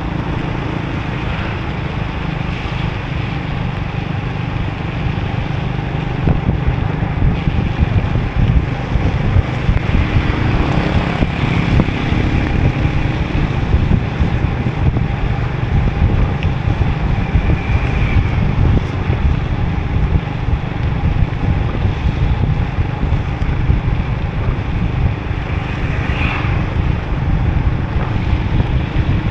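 Motorbike riding through rain, heard as steady, heavy wind rumble on the microphone over the engine and the hiss of tyres on the wet road.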